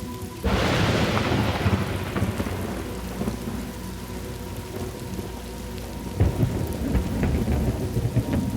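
Thunderstorm: steady rain with a sudden clap of thunder about half a second in that rumbles away over a couple of seconds, then another low rumble of thunder near the end.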